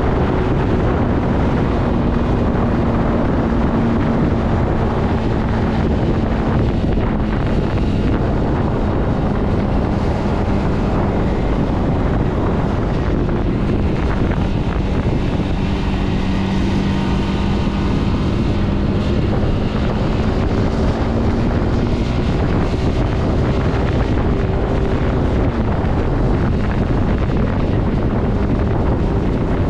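Zontes C125's 125cc engine running steadily while the motorcycle rides along, its note drifting gently up and down with the throttle, under heavy wind noise on the microphone.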